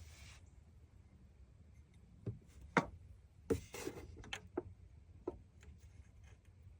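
A handful of light clicks and knocks from small hard objects being handled, over a faint low hum.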